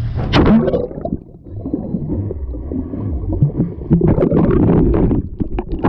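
Water sloshing and gurgling, with scattered knocks and splashes.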